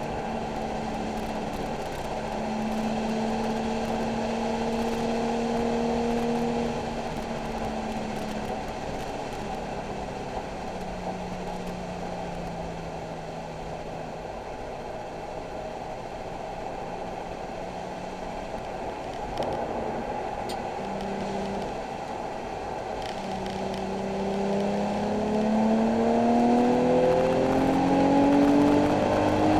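Nissan 370Z's 3.7-litre V6 on a wet track, over a steady hiss of road and tyre noise. The engine holds steady revs at first, runs lower through the middle as the driver eases off, then revs up steadily near the end under acceleration.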